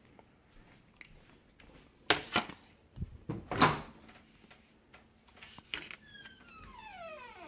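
Knocks and clatter of a microwave door and a plate being handled. Near the end comes a squeak that falls in pitch over about a second and a half.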